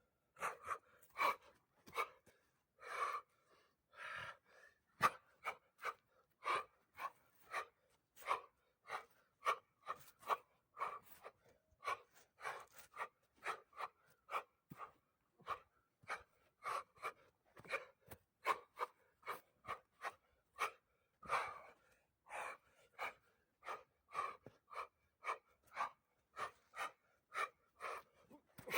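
Quick, forceful breaths and short exhalations of a person practising wushu, in a rapid, irregular series of about two or three a second, with a few sharp clicks among them.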